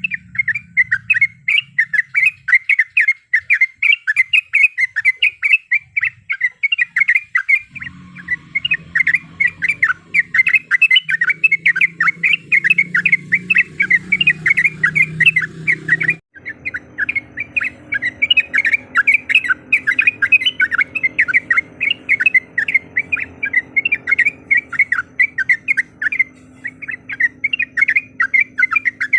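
Yellow-vented bulbul (trucuk) singing a fast, continuous chattering run of sharp repeated notes, several a second, without a break except a brief gap about halfway through. A low hum sits under it in the second half.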